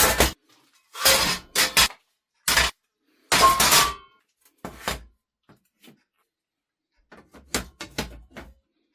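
Metal workpieces being handled and set down, a series of sharp clanks and knocks in several short clusters with silent gaps between them.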